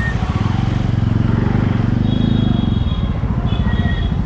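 Jawa Classic 300's single-cylinder engine and exhaust running steadily while riding, with a slight change in the engine note near three seconds in. A few thin high tones sound near the end.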